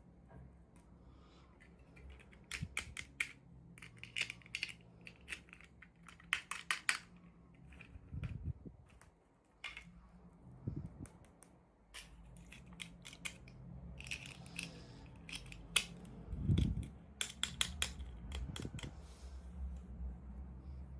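Hands opening toy packaging: bursts of sharp clicks and crinkles of plastic and cardboard, with a few dull thuds as pieces are set down.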